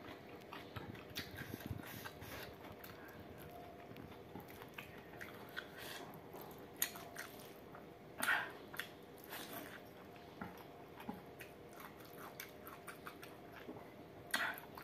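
Close-miked eating: a person chewing a mouthful of rice and perilla seed pork curry, with soft wet clicks and smacks throughout and louder bursts about eight seconds in and near the end.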